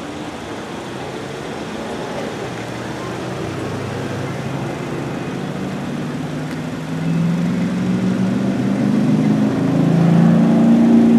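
Car engine running and building, its pitch rising and getting louder, with a further jump in loudness about seven seconds in, as in a car pulling away and accelerating.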